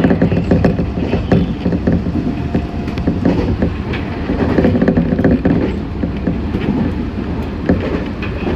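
Meitetsu 6500 series electric train running at speed, its wheels rattling and knocking over the rails in a steady run of clicks, heard from inside the car.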